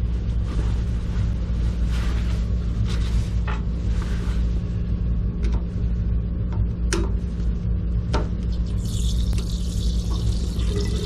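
Steady low hum with scattered clicks and knocks of handling; about nine seconds in, a hiss of water starts running as the electric water heater is drained.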